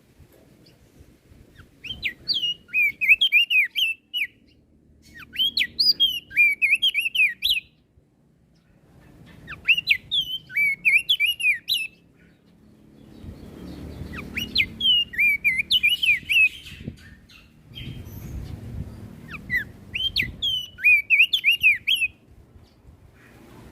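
An opior jambul (crested dark-eye) singing: five rapid phrases of sharp, falling chirps, each about two seconds long, separated by short pauses. A low rumble of background noise sits under the later phrases.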